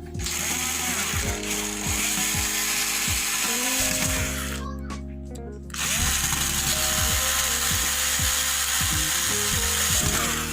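Power screwdriver running in two long runs, about four seconds each with a brief pause between, driving in the screws of an LED TV's back cover as it is closed up. Background music plays underneath.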